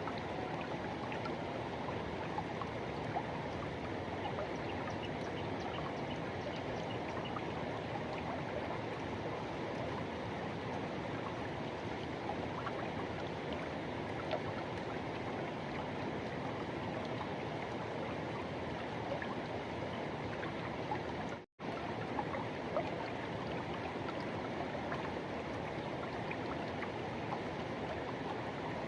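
Forest river water rushing and flowing in a steady, constant stream. The sound cuts out for a split second about two-thirds of the way through, then carries on unchanged.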